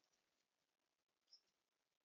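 Near silence with faint hiss, broken by one short, faint high-pitched songbird chirp about a second and a half in.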